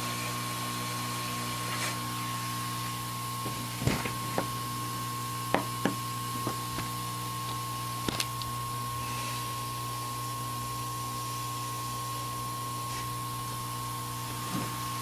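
Steady whirring hiss of electronics repair bench equipment, with a constant low hum and a thin steady high tone. A handful of sharp small clicks of tools on the board come between about four and eight seconds in.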